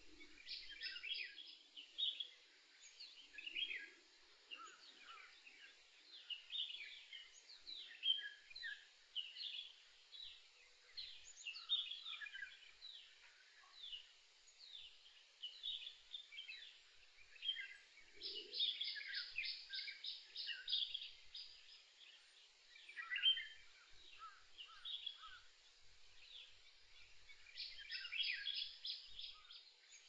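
Several birds singing and calling, with many short chirps and quick downward-sweeping notes overlapping. A fast trill of repeated notes comes about two-thirds of the way through and again near the end.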